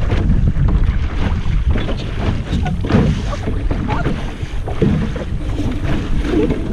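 Wind buffeting the microphone aboard a small sailboat under way, a constant low rumble, with irregular surges of water sloshing against the hull.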